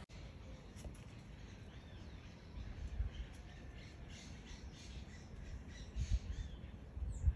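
Birds calling and chirping in short, squawky notes over a quiet background, with a few low thuds about three, six and seven seconds in.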